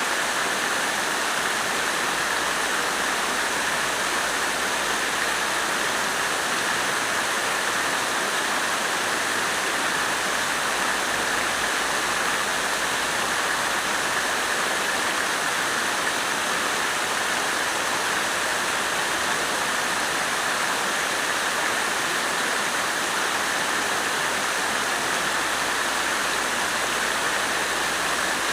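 Water fountain splashing, a steady, unbroken rush of falling water.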